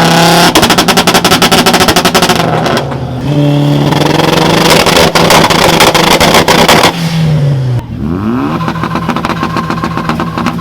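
Car engine revved onto a two-step launch-control rev limiter and held there, its exhaust crackling and banging in a rapid stutter, twice. About eight seconds in, it revs up again and holds a steady high note.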